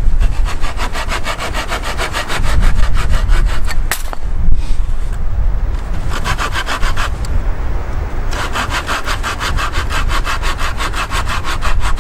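Hand saw cutting through firewood in quick, even strokes, about five a second, stopping briefly twice before starting again.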